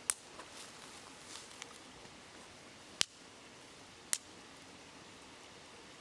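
Wood campfire crackling, with three sharp pops (one at the start, one about three seconds in, one just after four seconds) and a few smaller crackles in the first two seconds. Under it runs the steady hiss of a babbling river.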